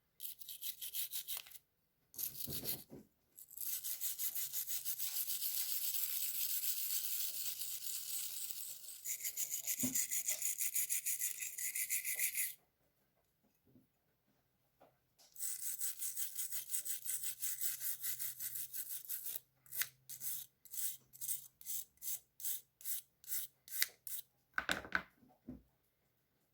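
Stiff brush scrubbing a small part in long runs of rapid back-and-forth strokes, with short pauses. Near the end it slows to separate strokes, two or three a second.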